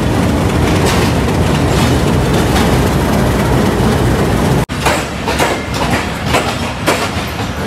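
A Pakistan Railways HBU-20 diesel-electric locomotive runs past close by with a loud, steady engine and running noise. After a sudden brief break a little past halfway, the passenger coaches follow, their wheels clacking over the rail joints a few times a second.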